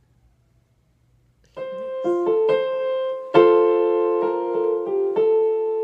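A piano melody, single notes struck one after another, beginning about a second and a half in after near silence.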